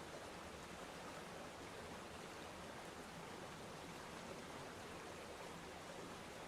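Waterfall: falling water making a steady, even hiss with no separate splashes or changes.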